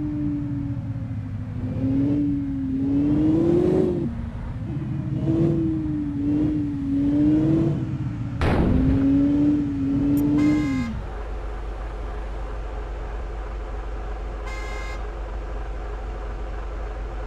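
Heavy truck's diesel engine labouring under load, its pitch rising and falling as it is revved and eased off, with a sharp knock about eight and a half seconds in. After about eleven seconds it settles to a steady, lower running sound.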